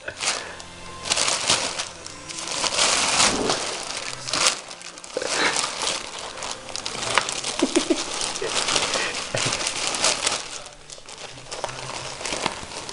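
A bag crinkling and rustling in irregular bursts as a cat moves around inside it, briefly quieter near the end.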